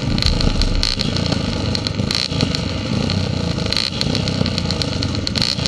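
Motorcycle engines running around a motocross start line, a steady mechanical din with a few faint steady tones, broken by repeated short clatters.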